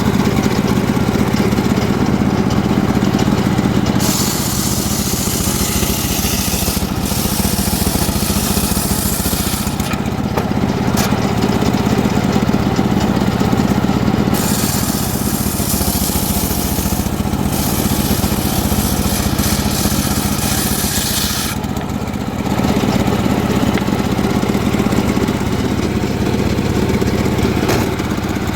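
Engine-driven homemade circular sawmill running steadily, with two long stretches of high-pitched hissing as the blade rips through a mahogany log: from about four to ten seconds in, and again from about fourteen to twenty-one seconds in.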